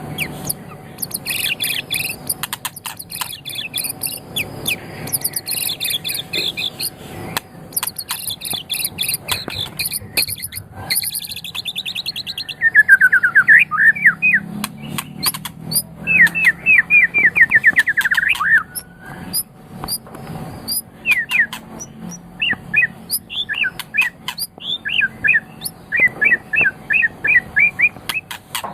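White-rumped shama (murai batu) singing a long, varied song: fast high trills in the first half, then loud rapid runs of quick sweeping whistled notes near the middle, then shorter separate phrases.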